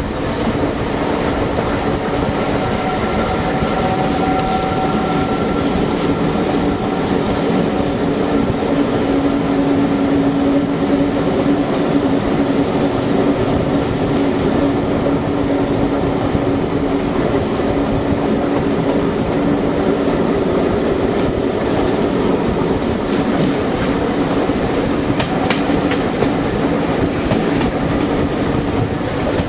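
Steam-hauled passenger train heard from an open carriage window as it runs at speed: a steady rumble and rush of the wheels on the track, with a steady hum underneath.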